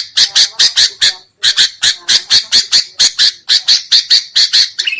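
Sooty-headed bulbul giving a fast run of short, harsh scolding calls, about four to five a second with one brief pause near the start: the agitated 'ribut' chatter used as a lure call for wild bulbuls.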